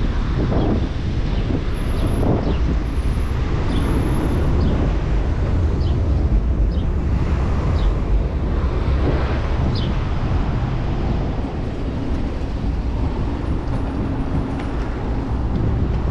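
Steady wind rush on the microphone of a moving bicycle, mixed with city road traffic.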